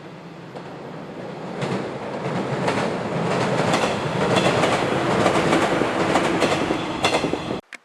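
A train on the Sanyo Main Line passing close by, its wheels clacking over the rail joints in a fast, regular rhythm that grows louder about a second and a half in. The sound cuts off suddenly near the end.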